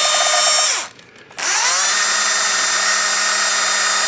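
DeWalt DCD710 cordless drill/driver running with a high whine. Just under a second in it winds down and stops, then spins back up about half a second later and runs steady. Its brushed motor is well worn, sparking and giving off an acrid smell.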